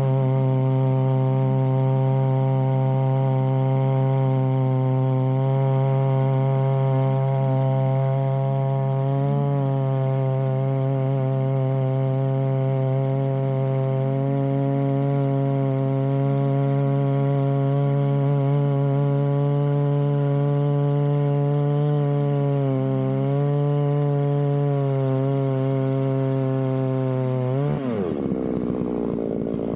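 Holzfforma two-stroke chainsaw running at steady high revs under load, ripping a log lengthwise in a chainsaw mill. Its engine note dips briefly twice, then falls away sharply near the end.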